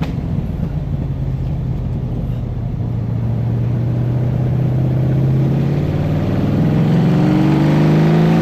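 Iso Grifo's V8 engine accelerating out of a hairpin bend. Its note climbs slowly at first, then rises faster and gets louder over the last couple of seconds.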